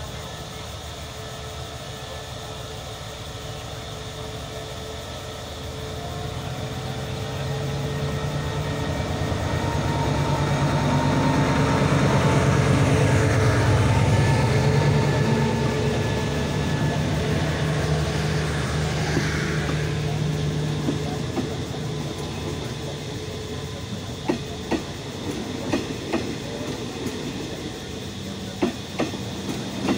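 A QSY diesel-electric locomotive pulling an express train out of the station and passing close by. Its steady engine drone grows to loudest about halfway through as the locomotive goes past, then the coaches roll by with wheels clacking over the rail joints near the end.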